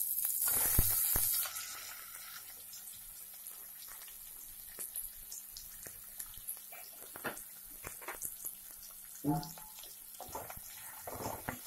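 Boiled amla (Indian gooseberry) segments tipped into hot oil with mustard seeds and asafoetida in a kadhai: a loud burst of sizzling as they land, easing after about a second and a half to a quieter sizzle with scattered small pops. The sizzle comes from water still clinging to the boiled fruit frying off.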